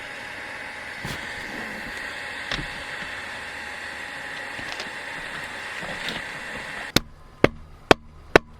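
A steady hiss-like noise, then, about seven seconds in, sharp knocks about two a second.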